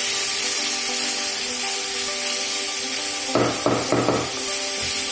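Chicken and vegetables sizzling in a hot stir-fry pan on high flame, with a spatula scraping and stirring in the pan three quick times about three and a half seconds in. Background music plays underneath.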